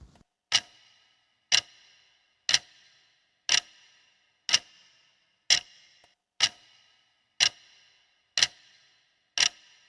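Clock-ticking sound effect used as a quiz countdown timer: sharp ticks once a second, ten in all, each with a short metallic ring. It marks the seconds allowed for answering the question.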